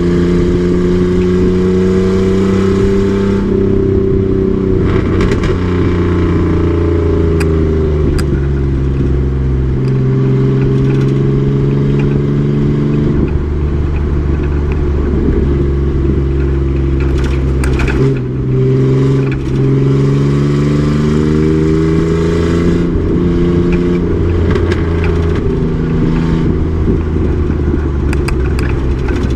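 Race truck's engine running hard on track, its pitch repeatedly climbing and then falling as the driver accelerates and lifts off, with short clicks and rattles over it.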